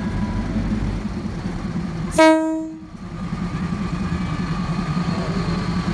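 State Railway of Thailand diesel railcar passing at close range with its engine running steadily. About two seconds in, its horn gives one short, loud blast, well under a second long, that stops abruptly.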